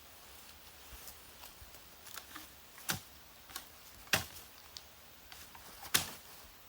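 A few sharp knocks, the three loudest about a second or two apart, with fainter clicks between.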